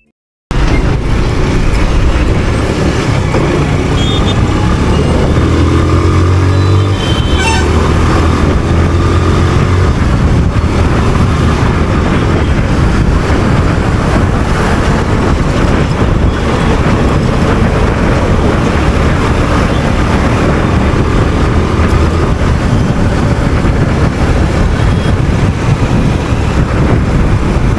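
Motorcycle being ridden, its engine running under a loud steady rush of wind and road noise. The engine note slides up and down a few times between about four and ten seconds in.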